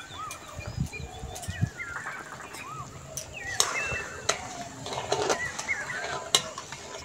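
Birds chirping and calling, many short calls that rise and fall in pitch, with a few sharp clicks in between.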